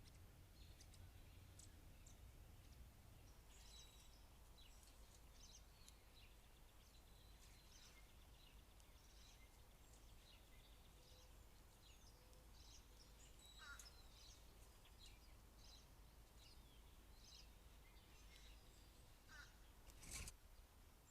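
Faint backyard birds chirping and calling: many short, high chirps scattered throughout over a low steady background rumble, with one sharp knock about 20 seconds in.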